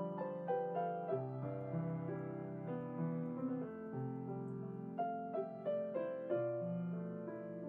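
Slow, gentle solo piano music: held chords over a low bass line, with a melody struck note by note.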